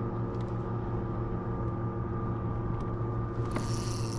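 Steady mechanical hum of a small boat motor running at an even pitch, with a hiss coming in near the end.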